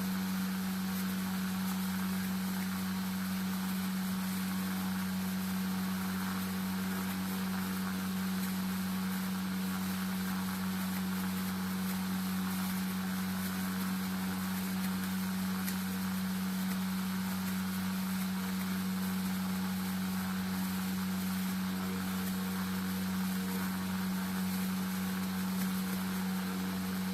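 Electric radiator cooling-fan motor from a Corsa pickup running steadily on a bench test, giving an even hum with a rushing hiss of moving air.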